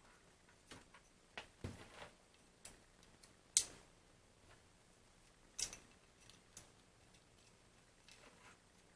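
Irregular light clicks and taps of small parts and tools being handled while a BeoCom 2 telephone is worked on, with two sharper clicks about three and a half and five and a half seconds in.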